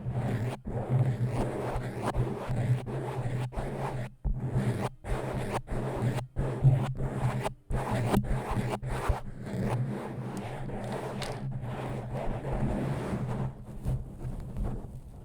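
Close-miked ASMR scratching and scraping: a run of rough strokes broken by brief pauses every second or so, over a steady low hum, stopping abruptly near the end.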